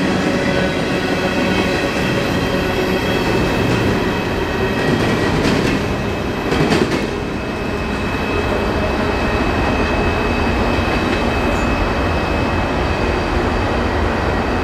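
Coal hopper cars of a freight train rolling on the rails: a steady rumble with a faint high squeal from the wheels, and a few sharp clicks about five to seven seconds in.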